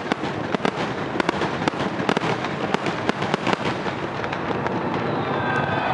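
Fireworks display going off in a rapid, dense run of bangs and crackles, several a second, with people's voices rising near the end.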